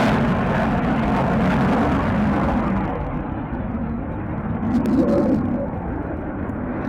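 Jet aircraft engine rumble fading away: its higher hiss dies off about halfway through, leaving a low rumble.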